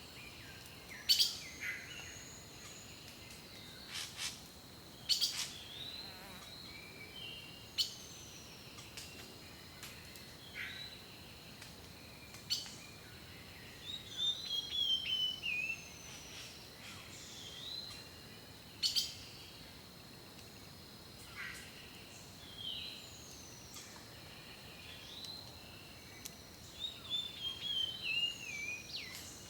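Several songbirds singing and calling: sharp chirps, short whistled slurs and, twice, a quick descending trill, over a faint steady high-pitched tone.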